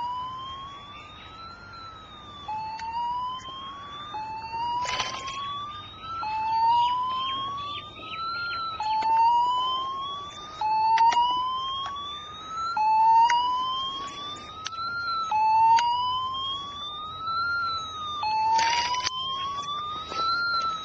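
Fire engine siren wailing in a repeating cycle: the pitch rises over about two seconds, dips briefly, then starts again low, about every two and a half seconds. Scattered sharp clicks and two short hissing bursts sit under it.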